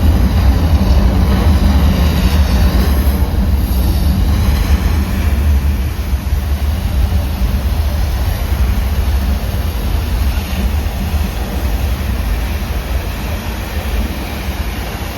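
Staged earthquake effects: a loud, deep rumble with a wash of rushing noise over it, easing off slowly toward the end.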